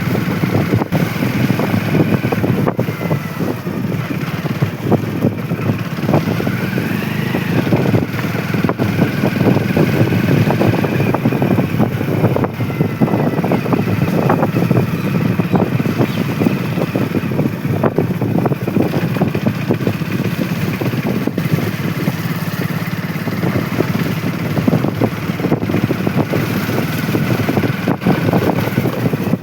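Motorcycle engine running steadily on the move, with gusty rushing noise throughout.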